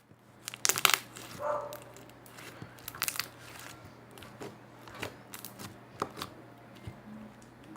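Sticky homemade shampoo slime being squeezed and stretched by hand, giving an irregular scatter of small clicks and pops.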